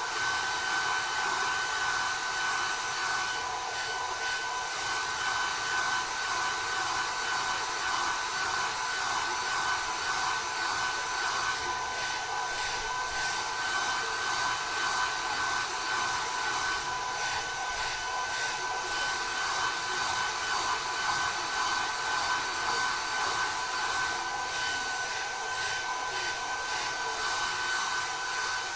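Hand-held hair dryer running steadily: a rush of blown air with a constant high fan whine.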